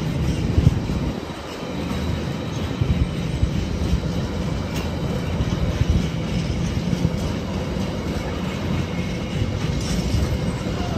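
Container flat wagons of a freight train rolling past: a steady rumble of steel wheels on rail, with a few sharp clicks over the rail joints and a brief dip in loudness about a second in.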